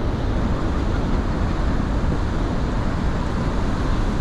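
Steady, loud low-pitched rush of a large waterfall, Horseshoe Falls at Niagara, heard close to the water.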